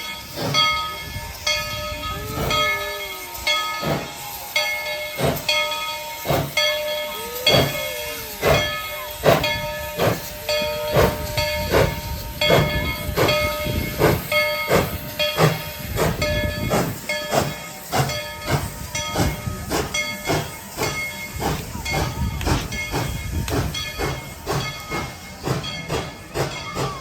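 Steam locomotive standing at the station, hissing steam, while its bell rings steadily at about two strikes a second.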